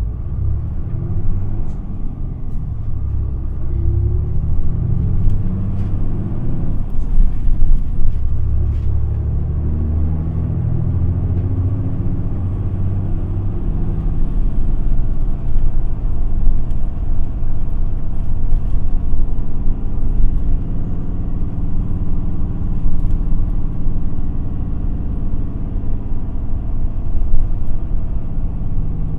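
Running sound inside an Isuzu Erga city bus (QPG-LV234L3) on the move: the diesel engine's pitch rises as it picks up speed, then runs steadily with a heavy road rumble.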